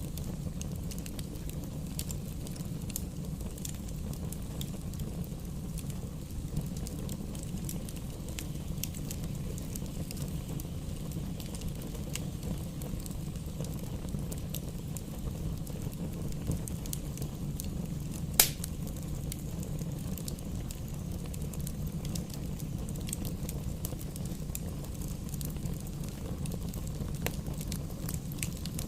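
Wood fire burning in a fireplace: a steady low rumble of flames with constant light crackling and one sharp, loud pop about two-thirds of the way through.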